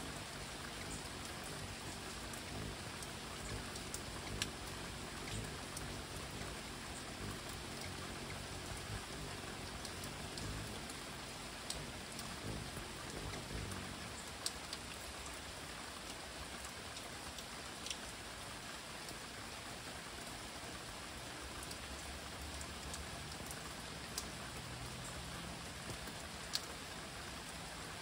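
Steady rain falling through leafy trees, with scattered sharp ticks of single drops landing close by.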